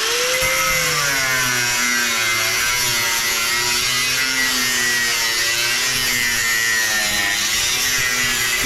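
Electric power tool running under load, cutting into metal parts of an air-filter unit's motor. Its motor pitch wavers as it bites, over a harsh, hissing cut, and it winds down right at the end.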